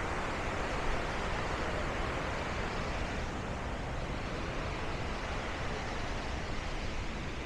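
Steady rushing roar of Bow Falls, the Bow River's water pouring over the falls, an even wash of noise with no breaks.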